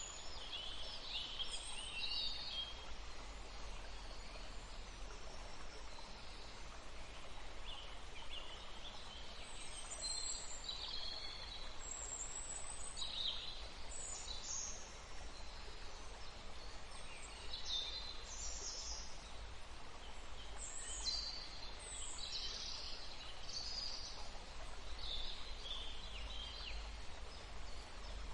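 Small birds chirping in short, high calls, scattered throughout, over a steady low rumble and faint even hiss.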